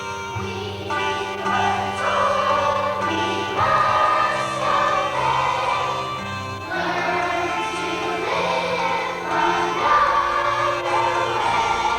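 A choir singing a song with instrumental accompaniment, with sustained low notes underneath the voices.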